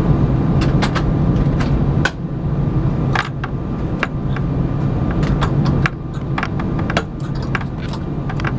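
Airbus A318 cabin noise at the gate: a steady low engine and air-system drone that steps down in level about two seconds in and again about six seconds in, with scattered sharp metallic clicks and rattles from the cabin.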